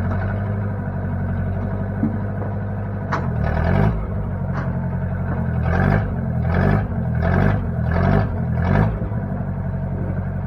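Case 540 backhoe's engine idling, then from about three seconds in its speed rises and falls in a run of about six short surges before settling back to a steady idle.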